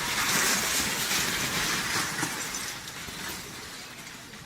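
A building collapsing: a broad rumble of falling rubble that is loudest at first and fades away.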